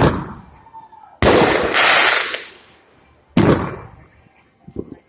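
Fireworks going off: a sharp bang at the start, a louder burst about a second in that lasts about a second, another bang past the middle and a small pop near the end, each fading out.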